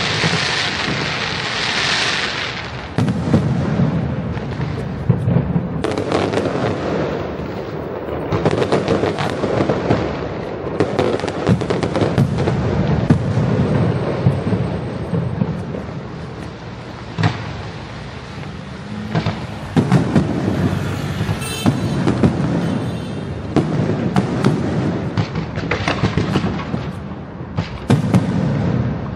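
Fireworks going off: many sharp bangs at irregular intervals throughout, over continuous crackling.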